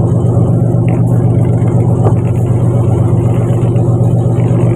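Fishing boat's engine running at a steady speed: a loud, even drone that does not change.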